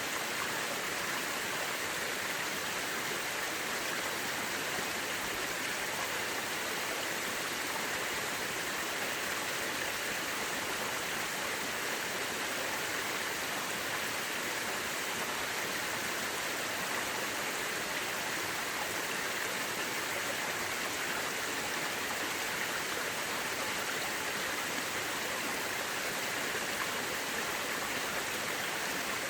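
Mountain river rushing steadily over rocks, a constant even water noise.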